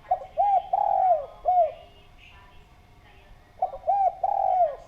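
Spotted dove (derkuku) cooing: two phrases of low, arched coos, one right at the start and another about three and a half seconds in, each made of short notes with a longer note in the middle.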